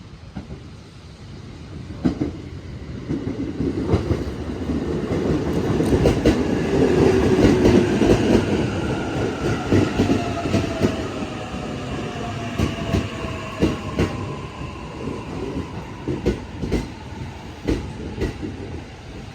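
JR East E531-series electric multiple unit pulling into a station, wheels clacking over rail joints. The sound builds to a peak about halfway through, then eases as the train slows, with a whine that falls steadily in pitch.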